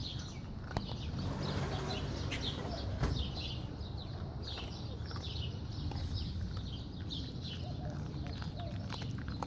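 Small birds chirping, a run of short, quick falling chirps repeated over and over, over a steady low rumble with a few sharp clicks.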